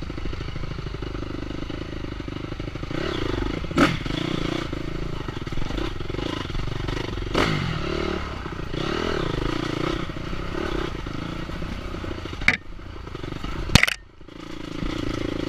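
Enduro dirt bike engine running and revving up and down, with a few sharp knocks and clatter. Near the end the engine briefly drops away, then picks up again.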